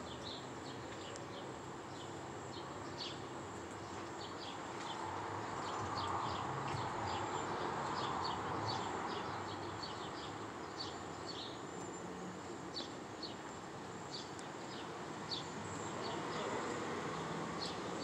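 Small birds chirping, many short sharp chirps coming irregularly, over a steady low outdoor rumble that swells a little about a third of the way in. A thin, steady high whine runs underneath.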